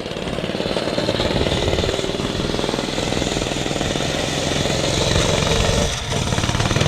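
A small vehicle's engine running steadily with a rapid, fast-firing pulse, easing off briefly about six seconds in.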